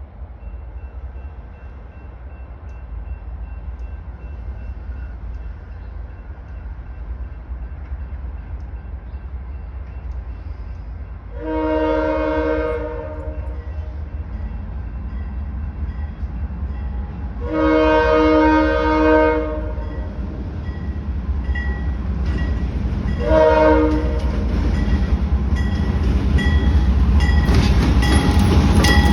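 Diesel train approaching with its engine rumble building, sounding its air horn in two long blasts and one short one. Near the end the engine and rail noise grow loud as it draws close.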